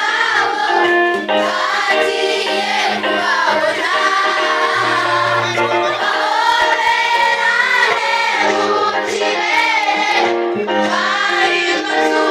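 A students' school choir singing a Christian worship song together, with steady low held notes underneath.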